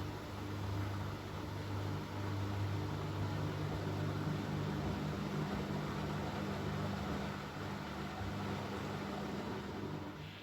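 Bosch Maxx WFL 248Y washing machine's motor running with a steady low hum over a noisy wash, dropping away just before the end.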